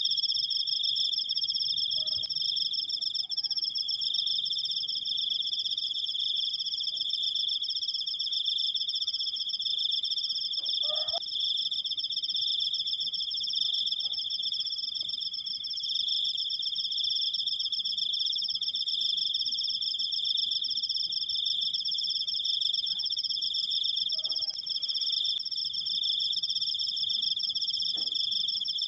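Cricket singing one long, unbroken high-pitched trill, a continuous fast pulsing. A few faint, brief calls or knocks sound underneath it.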